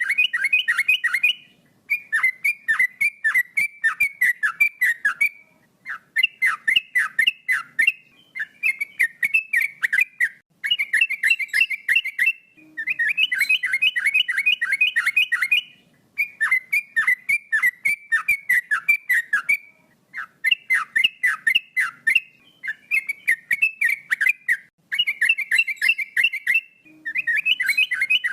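Male yellow-vented bulbul (trucukan) singing: phrase after phrase of rapid, quickly repeated notes, each a few seconds long, with short pauses between them.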